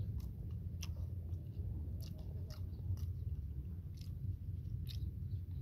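A person chewing a grilled egg close to the microphone: scattered short, moist clicks over a steady low rumble.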